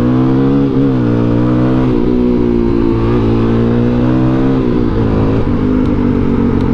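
Suzuki DR-Z400SM single-cylinder four-stroke engine accelerating hard, its pitch climbing and then dropping back at each of about three gear changes before it settles lower near the end. The engine is running cold on half choke.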